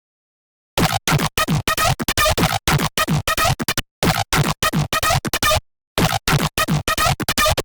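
Serum wavetable synth patch, built from an AI-generated image, playing a fast, choppy run of short stuttering notes at about four a second, each with a falling low pitch. The run starts about a second in and breaks off briefly twice.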